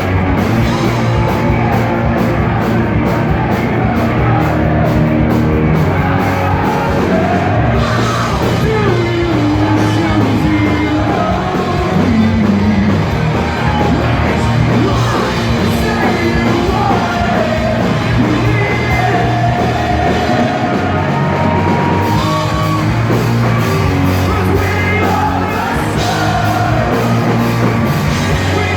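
A post-hardcore rock band playing live: distorted guitars, bass and drums with sung and shouted vocals over them.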